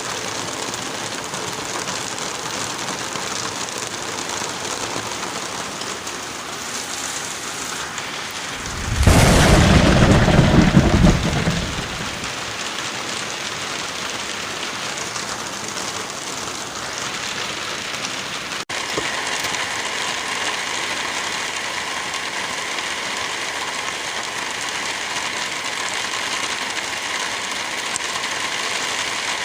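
Steady rain falling, with one loud rumbling thunderclap about nine seconds in that lasts around three seconds. A brief dropout about two-thirds of the way through, after which the rain sound runs on slightly changed, as at a loop join.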